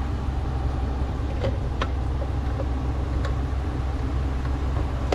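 A few light clicks as the power steering motor is worked back onto the steering column, over a steady low hum.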